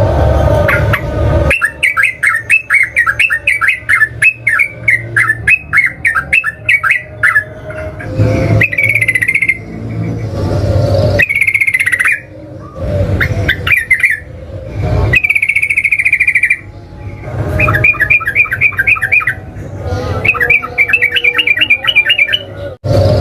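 Sooty-headed bulbul (trucukan) singing loudly. It gives rapid runs of chattering notes, about five a second, in the fast rolling style bird-keepers call ropel. The runs are broken by shorter, longer-held whistled phrases.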